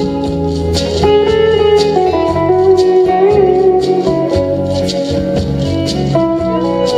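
Live band playing an instrumental break: a guitar lead with bending notes over bass and drums.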